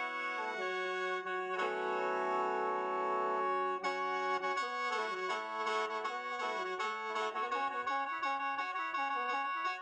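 Lao khaen (bamboo free-reed mouth organ) playing: several reeds sound together as a chord and drones, with a long held chord about two seconds in, then a quicker stepping melody over the sustained drone notes.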